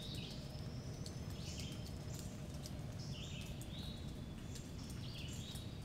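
Faint bird chirps: several short, high calls scattered through, over quiet outdoor background noise.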